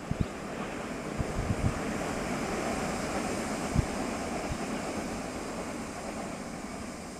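Express train receding down the line, a steady wash of wheel-on-rail rumble that slowly fades, with a few low thumps of wind on the microphone, one about four seconds in.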